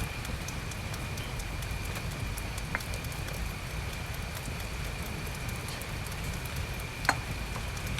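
Steady rain pattering on a camping tarp, with a faint steady high tone behind it. A couple of light clicks stand out, one about three seconds in and one near the end.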